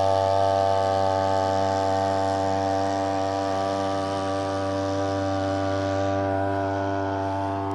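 Homemade outboard boat motor built on a Chinese brush-cutter engine, running at a steady speed with an even, high buzz that fades slightly and grows duller near the end.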